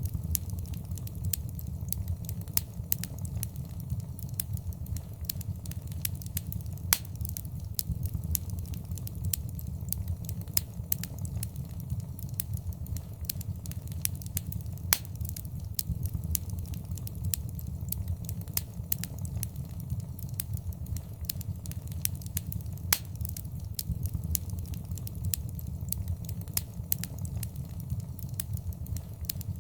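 Wood fire burning in a fireplace: a steady low rumble of flames with frequent sharp, irregular crackles and pops, a few of them louder.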